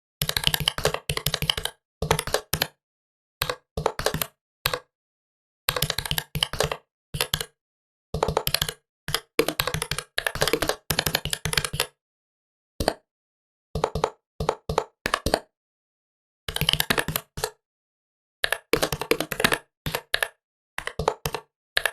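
Typing on a laptop keyboard: runs of rapid key clicks, each lasting up to about two seconds, broken by short pauses. The track drops to dead silence between runs.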